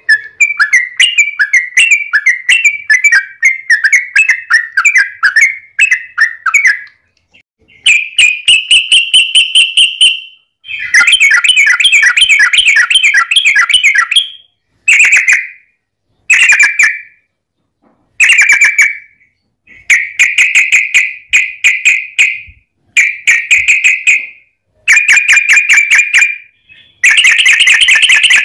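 Yellow-vented bulbul (trucukan) singing loud, fast chattering phrases of rapidly repeated notes, each phrase lasting one to four seconds with short pauses between, the last phrase running longest.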